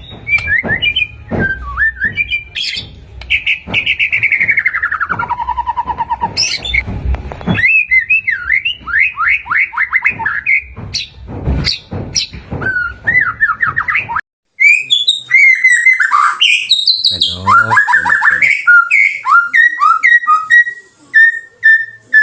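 White-rumped shama (murai batu) singing a loud, varied song of whistles, gliding notes and rapid trills. About fourteen seconds in, the sound drops out for a moment and a cleaner recording of the song carries on.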